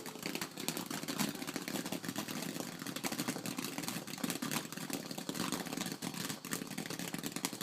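Bonfire burning: dense, irregular crackling and popping over a steady low rush of flame.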